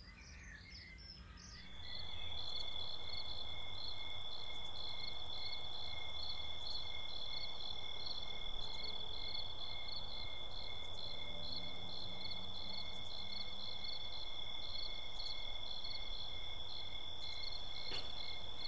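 Crickets chirping in a steady chorus that comes in about two seconds in, a continuous high trill with faster pulsing chirps layered over it.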